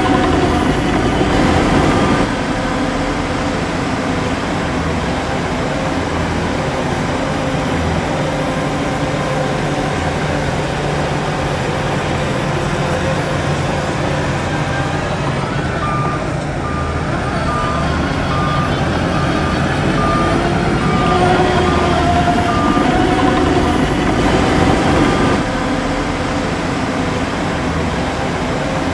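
Heavy diesel earthmoving machinery running steadily under load. A reversing alarm beeps in an even series at the very start and again for several seconds past the middle, as a vehicle backs up.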